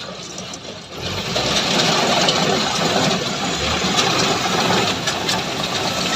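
Combine harvester running on a test run after repair, its engine and machinery giving a busy, rattling mechanical noise. About a second in the sound grows much louder and then holds steady.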